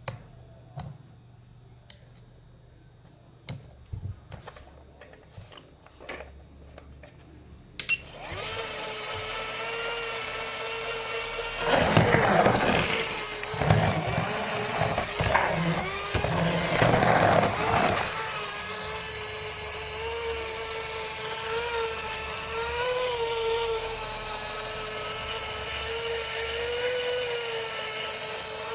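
A series of sharp clicks, then a small electric motor starts about a third of the way in and runs at high speed with a steady whine. Louder rough, rattling noise joins it for several seconds in the middle.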